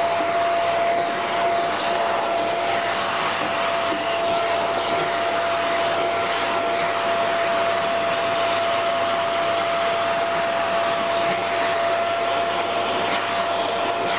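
Vacuum cleaner running steadily: a constant rushing noise with a steady whine on top.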